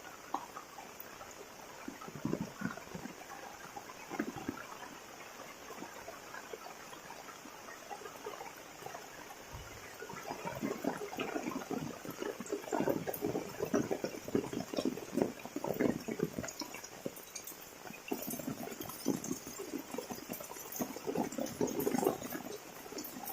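Heavy rain with running, splashing water. The splashing gets busier about halfway through.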